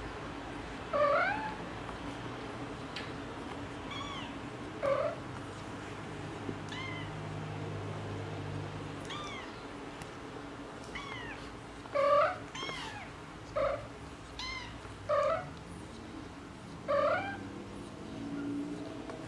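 Domestic cat meowing repeatedly: about six loud, short meows, each rising then falling in pitch, spread irregularly, with fainter, higher-pitched calls in between.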